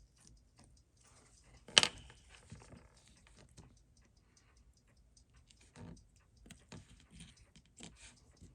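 Small tools clicking and tapping against a watch movement during disassembly, with one sharp click about two seconds in and lighter clicks later. Under it, a fast, steady, faint ticking of a running timepiece.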